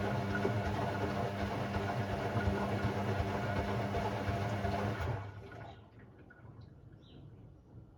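Hoover Sportswear 1300 AI130 washing machine with water rushing through it and a steady hum, which cuts off about five seconds in, leaving a much quieter machine.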